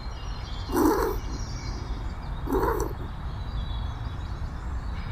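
Rabbit sound effect: two short noisy calls about two seconds apart, over a steady low rumble.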